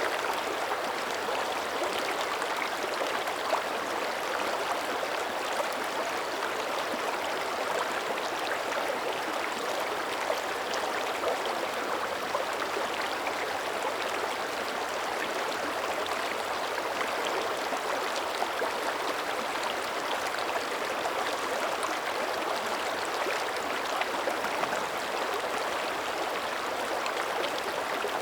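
Mountain creek running over rocks: a steady rush and babble of water, with small splashes flicking through it.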